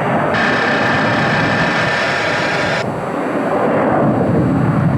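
Jet airliner engines running as a departing plane heads out, a broad rumble that swells in the low end near the end. For about two and a half seconds near the start, a steady hiss with a thin whistle-like tone switches on and cuts off abruptly.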